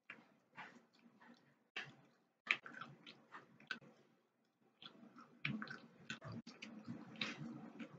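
A person chewing food close to an earphone microphone: irregular wet clicks and smacks of the mouth, growing denser and louder about halfway through.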